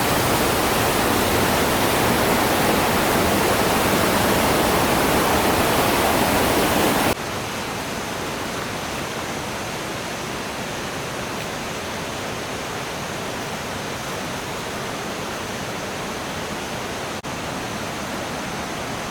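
Steady rush of a waterfall, loud for about seven seconds and then dropping suddenly to a quieter rush of water with a faint high steady tone over it.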